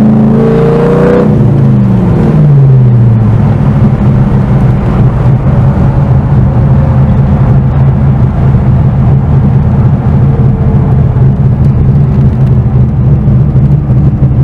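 LS1 V8 engine of an FD RX-7, heard from inside the cabin. About a second in, the revs fall over two seconds or so, then the engine runs steady at lower revs with a rough, pulsing note.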